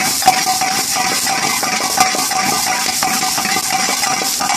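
Pre-cooked spinach with onion and garlic sizzling in hot oil in a frying pan as it is tossed and stirred, with clicks of the metal ladle against the pan. A steady thin whine runs underneath and stops at the very end.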